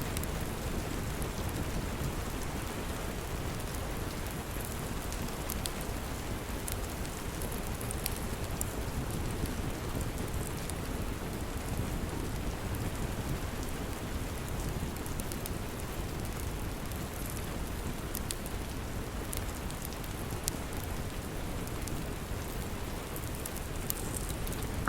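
Steady rain with a wood fire crackling in a fireplace: an even wash of rain noise with scattered small, sharp pops from the fire throughout.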